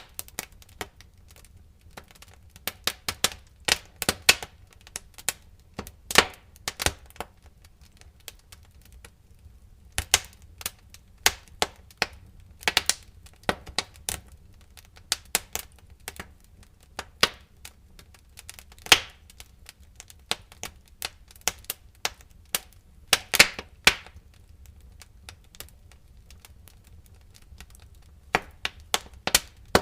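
Wood fire crackling: irregular sharp pops and snaps over a low steady rumble of the flames.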